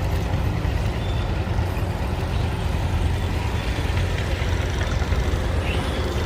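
Tractor engine running steadily with a deep, even rumble while pulling the weight sled.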